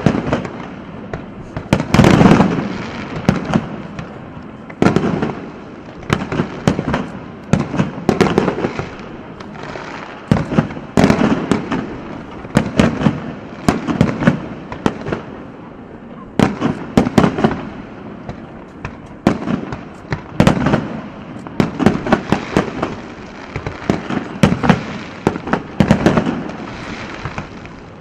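Aerial fireworks bursting in repeated volleys, a cluster of sharp bangs and crackles about every one to two seconds.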